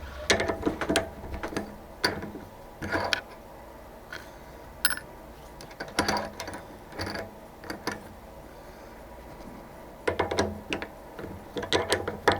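A low machine hum fades out in the first second or so. It is followed by scattered clusters of light metallic clicks and rattles from hand work at a metalworking machine.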